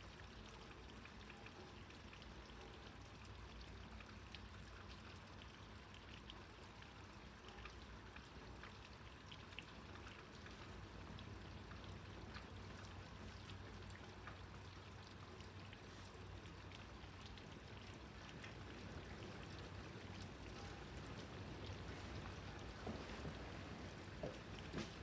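Faint steady rain, with many small drops pattering and water trickling, over a low steady hum. A few louder drips come near the end.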